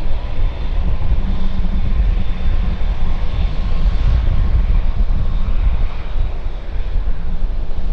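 Jet airliner's engines running: a deep, steady rumble with a faint high whine above it.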